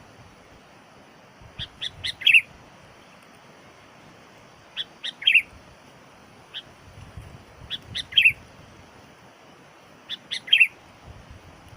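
Sooty-headed bulbul (kutilang) calling: short phrases of a few quick notes ending in a bright chirp, repeated about every two to three seconds. It is the call of the trained decoy bulbul used to lure wild birds.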